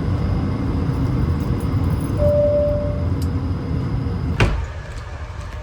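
Steady low rumble of aircraft noise with a brief single tone about two seconds in. A sharp click about four and a half seconds in, after which the rumble drops away.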